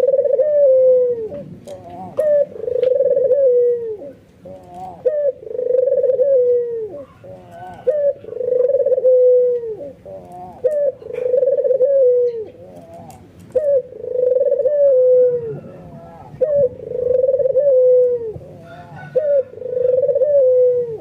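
White (albino) puter, a domesticated ringneck (Barbary) dove, giving its bow-coo over and over: each time a few short notes, then one long coo that falls slightly at the end, about every two and a half seconds.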